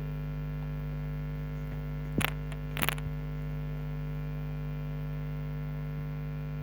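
Steady electrical mains hum on the recording, with a couple of brief clicks about two and three seconds in.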